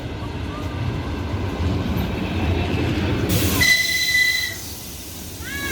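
Electric commuter train rolling slowly past a platform with a low steady rumble. About three and a half seconds in comes a hiss and a short, steady high-pitched squeal from the train, lasting under a second, and then the rumble dies down.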